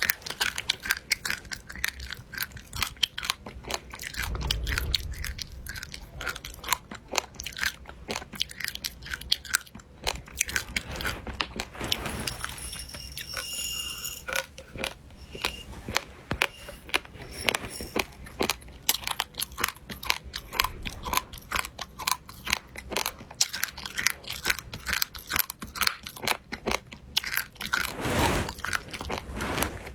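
Close-miked chewing of crunchy food: a fast, continuous run of crisp crunches and bites.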